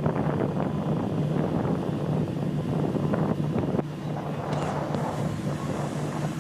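A heavy engine drones steadily under wind buffeting the microphone, and the level drops slightly about four seconds in.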